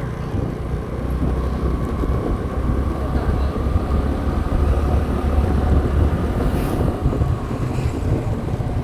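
Motorcycle riding along a road, its engine a steady low hum under the rush of wind buffeting the microphone.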